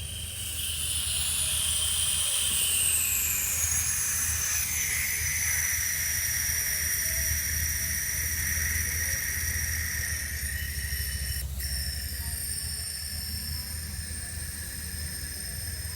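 Refrigerant gas hissing out through an opened gauge valve and charging hose. A whistling tone slides down in pitch over the first few seconds, then holds steady under a low hum, with one short click near the end.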